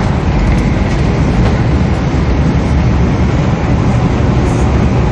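Steady low rumble inside the passenger cabin of a Boeing 777 as it arrives at the airport.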